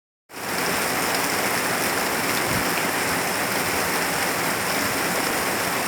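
Heavy tropical rain falling steadily, a dense, even hiss of many drops, coming in just after the start.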